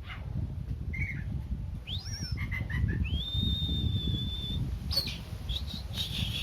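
Oriental magpie-robin (kacer) singing, a male in breeding condition. Clear whistled notes include a quick rising note and two long, steady high whistles, each held for more than a second, over a low rumbling background.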